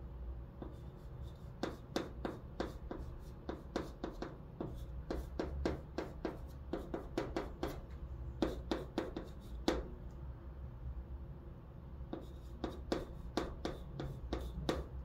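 Chalk writing on a blackboard: quick taps and short scratching strokes as Chinese characters are written, with a pause of about two seconds after the middle before the strokes start again.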